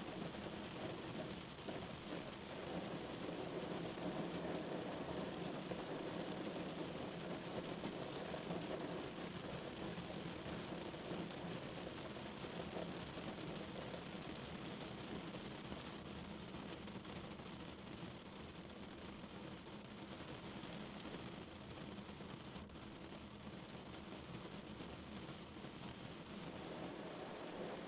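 Rain falling on a car, a steady dense patter of drops on the body and roof, a little softer in the second half and picking up again near the end.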